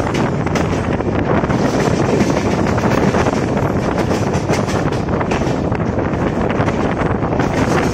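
Moving passenger train's wheels running steadily on the rails, a continuous rumble with rapid clattering, heard from the train's open doorway with wind buffeting the microphone.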